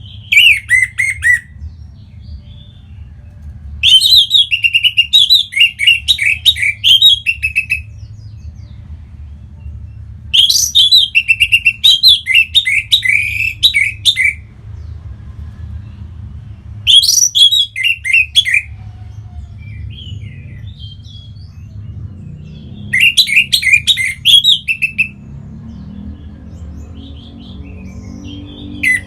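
Orange-headed thrush singing: five bursts of quick, varied notes a few seconds apart, over a low steady hum.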